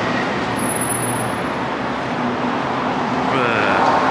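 Steady noise of car engines running and traffic, with a faint low engine hum underneath.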